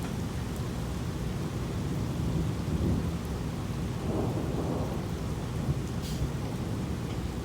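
Thunderstorm: steady rain with low rolling thunder that swells about two and four seconds in, and a brief click about six seconds in.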